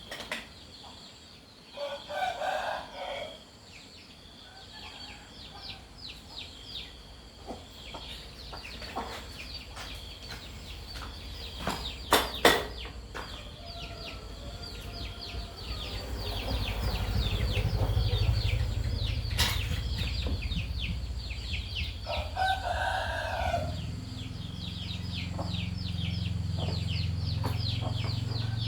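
A rooster crows twice, about two seconds in and again near the end, over a rapid high ticking. From about halfway a low steady engine rumble sets in and keeps going.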